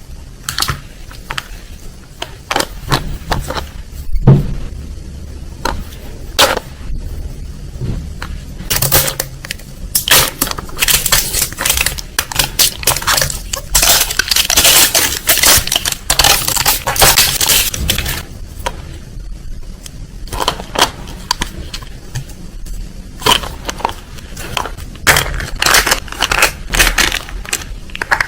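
Repeated sharp cracking, crunching and clicking, like hard shells or plastic being broken open and handled, densest in the middle.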